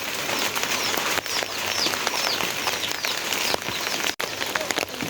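Rain falling steadily, pattering and dripping on surfaces. A bird gives a rapid series of short, high, downward chirps through the first few seconds.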